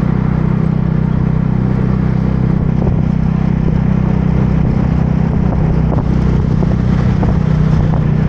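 Motorbike engine running steadily while riding, a constant low drone.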